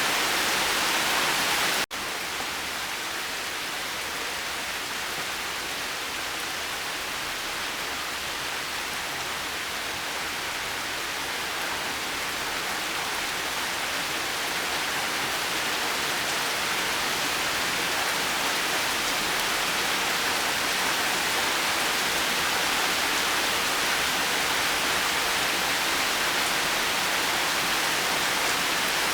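Steady rain falling, an even hiss of many drops. About two seconds in it cuts out for an instant, as at a splice in the recording, and comes back slightly quieter, then slowly builds again.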